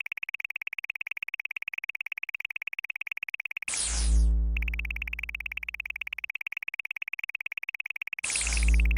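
Synthesized sound effects for a cat laser-pointer game: a rapid, even run of high electronic chirping pulses. Twice, about four and eight seconds in, a falling synth sweep lands on a deep bass boom that fades out.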